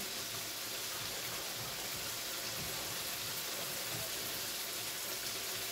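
Chicken karahi sizzling in a wok on the stove: a steady, even hiss with no breaks.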